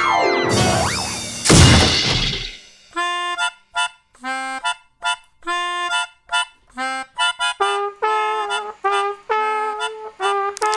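Cartoon sound effects: falling pitch glides and a loud burst of noise. From about three seconds in, background music takes over, a bouncy tune of short staccato notes on a reedy wind instrument like a harmonica.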